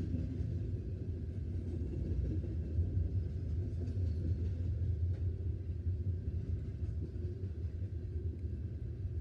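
Loaded CSX coal train rolling past, a steady low rumble of wheels on rail.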